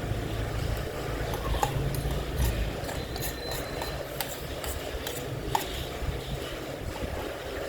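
Wind and heavy rain: a steady low rumble with a hiss, and a few sharp clicks of eating utensils on a bowl.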